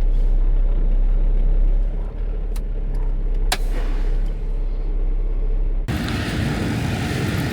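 Semi truck diesel engine idling with a steady low hum and a couple of sharp clicks. About six seconds in, the sound switches abruptly to a louder, even rushing noise.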